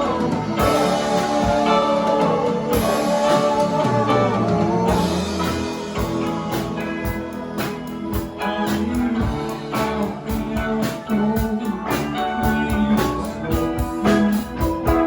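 Live band playing a rock song, with guitar over a steady drum beat.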